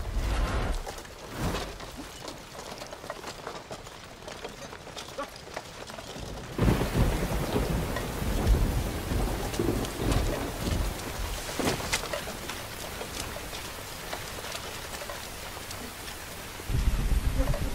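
Heavy rain falling steadily, with low rolls of thunder. It grows louder and heavier after about six and a half seconds.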